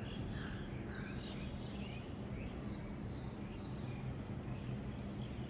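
Small birds chirping repeatedly in short falling notes over a steady low background hum.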